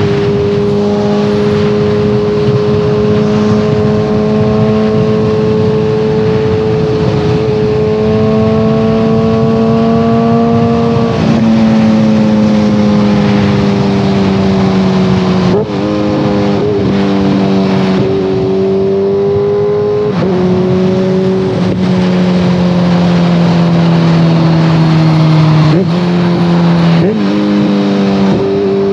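A 2014 Kawasaki ZX-14R's inline-four engine running through a full Brocks Alien Head 2 aftermarket exhaust under way, loud and continuous. The note holds steady at cruising revs, then sags in pitch as the throttle eases. It changes pitch in several quick steps as the rider shifts and rolls the throttle on and off, and climbs again near the end.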